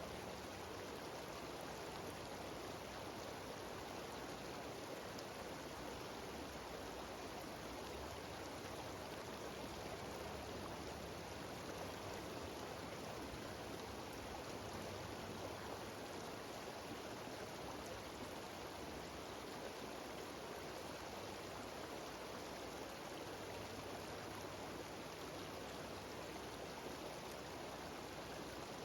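Steady rushing of a small cascading mountain stream, an even, unbroken wash of water noise.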